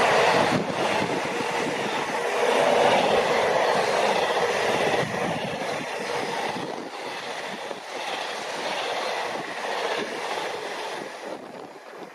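A passing train's wheels and running gear on the rails, loud at first and then fading as it moves away.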